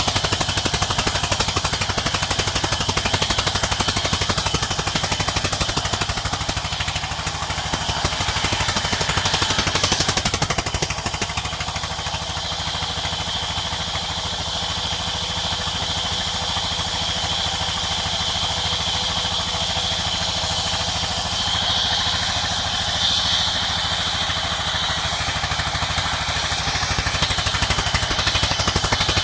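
Sawmill machinery running steadily: an engine with a fast, even pulsing under a high hiss of the saw. It eases off slightly about a third of the way through, and the hiss grows brighter later on.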